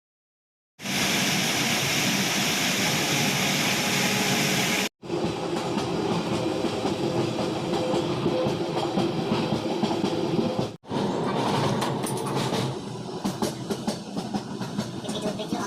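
Passenger train running on rails: a loud, steady rushing noise that starts suddenly about a second in. It is broken by two sudden brief dropouts where clips are joined, and rattling wheel clicks grow more distinct in the last few seconds.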